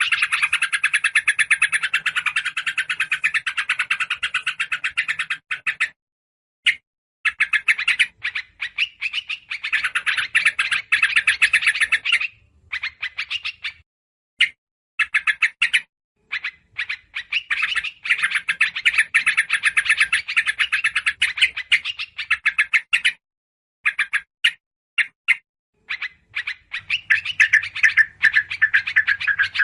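Bird-lure recording of yellow-vented bulbuls (trucukan) calling noisily, mixed with other small birds. It plays as bursts of rapid chattering notes, several seconds each, broken by short pauses.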